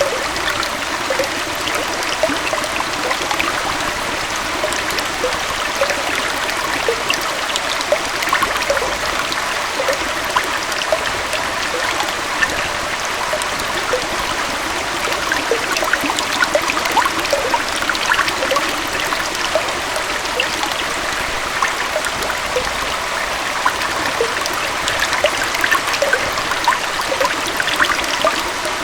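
A small waterfall on a forest stream: a steady rush of flowing water with many small gurgles and splashes running through it.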